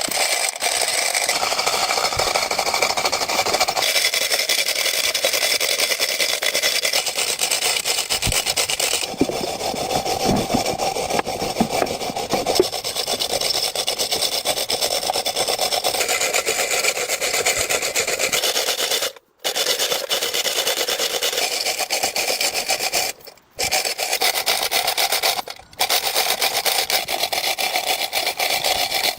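Continuous harsh abrasive rubbing noise of tool work during an engine repair, its texture shifting a few times. It cuts out briefly three times in the later part.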